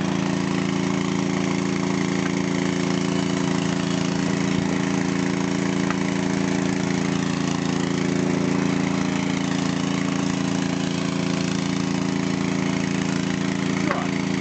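Small two-cylinder diesel engine of a hydraulic power unit running steadily at an even speed.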